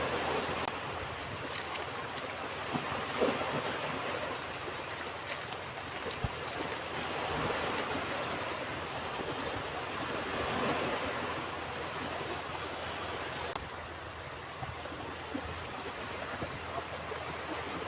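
Ocean surf: waves breaking and washing up a beach as a continuous rushing wash that swells and eases slowly.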